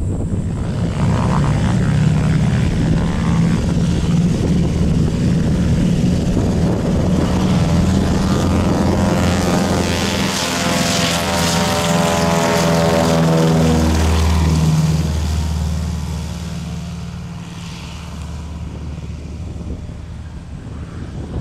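Douglas DC-3's twin Wright Cyclone nine-cylinder radial engines running loud as the propeller airliner moves past. The engine drone drops in pitch and fades about two-thirds of the way through.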